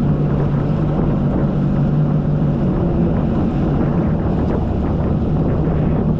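Jet ski engine running at a steady speed, a constant drone, with wind buffeting the microphone.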